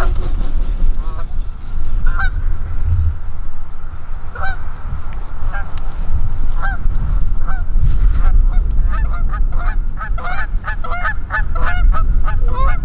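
Geese honking, scattered single honks at first, then a dense chorus of many overlapping honks from about eight seconds in, over a steady low rumble.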